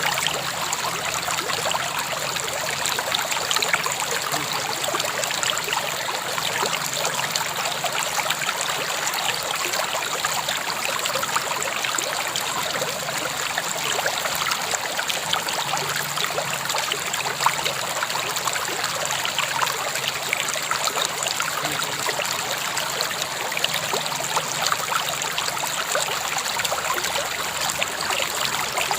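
River water flowing steadily over stones, a continuous babbling and splashing with no let-up.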